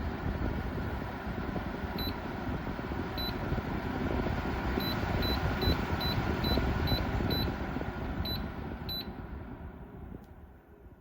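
YougetTech evaporative humidifier's fan running with a steady rush, while its digital control panel gives about a dozen short high beeps as its buttons are pressed, coming quicker in the middle.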